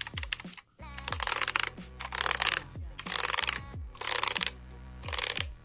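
HP GK100 mechanical keyboard's clicky blue switches being pressed in quick runs: about five bursts of rapid clicking, each well under a second, with short gaps between.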